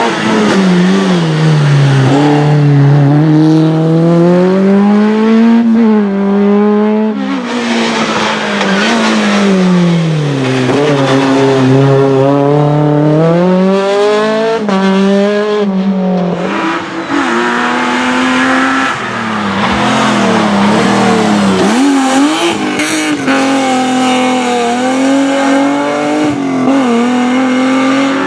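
Race car engine revving hard and easing off again and again, its note rising and falling every few seconds as it accelerates between the slalom gates.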